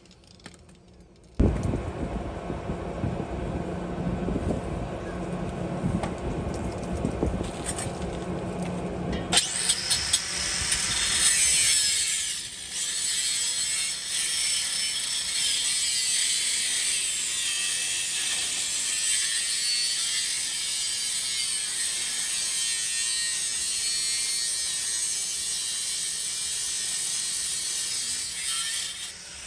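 A power tool cutting through a truck's steel exhaust pipe. It starts suddenly and runs rough and gritty for several seconds, then settles about nine seconds in into a steady high hiss, almost to the end.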